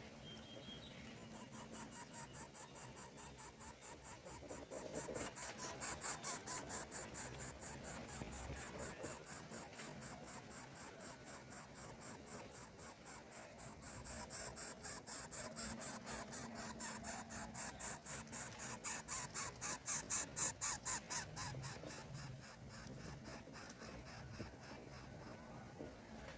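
Greater coucal chick begging: a rapid, high-pitched series of calls, about four or five a second, in two long bouts, the second starting about halfway through.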